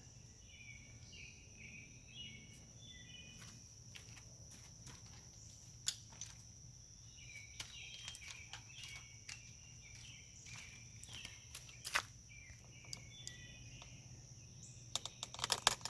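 Faint outdoor ambience: a steady high-pitched insect drone, with birds chirping in short phrases and a few scattered light clicks.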